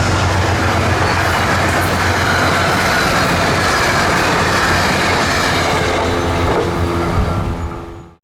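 Passenger train running past at speed, with steady rail and wheel noise. The sound eases in the last second and then cuts off abruptly.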